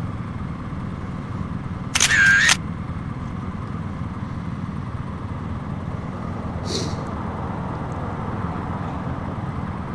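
Steady wind and road noise with the low drone of a motorcycle engine on the move, heard through a microphone inside a rider's helmet. There is a brief loud burst about two seconds in.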